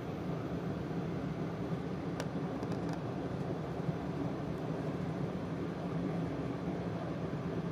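Steady running noise of an E4 Series Max double-decker Shinkansen heard inside its upper-deck cabin: an even, mostly low rumble of the train on the track, with a few faint ticks a little after two seconds in.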